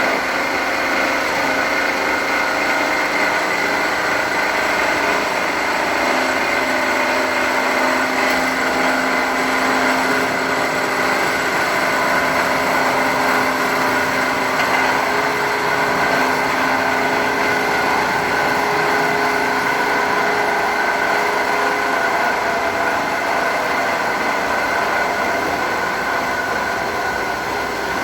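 Automatic muffler-pipe cutting machine running steadily, a continuous loud mechanical whine with several steady tones.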